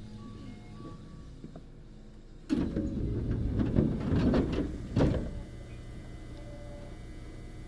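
Passenger doors of a Tokyu Series 9000 commuter train sliding, with rattling and clatter for about three seconds and a thud as they reach the end of travel about five seconds in. A steady low hum from the standing train runs under it.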